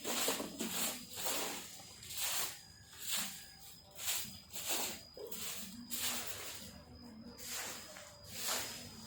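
Broom sweeping fallen leaves and debris in repeated swishing strokes, about one every half second to a second, uneven in rhythm.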